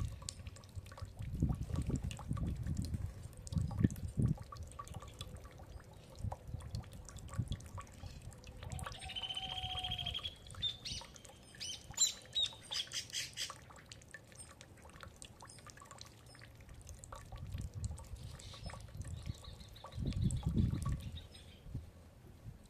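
A bird calling in a short run of quick repeated chirps and higher notes, starting about nine seconds in and lasting a few seconds. Low rumbling comes near the start and again near the end.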